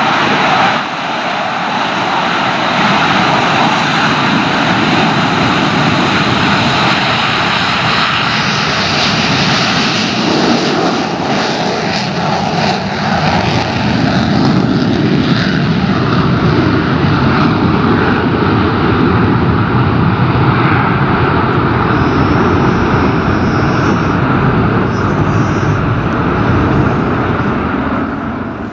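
Engines of a formation of military aircraft running at high power as they set off together, a loud continuous noise that holds steady throughout.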